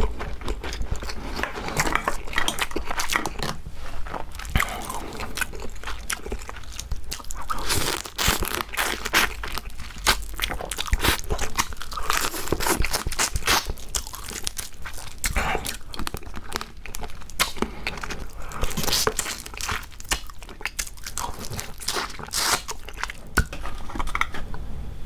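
Close-miked eating of raw marinated crab: shells crunching and cracking between the teeth, with chewing.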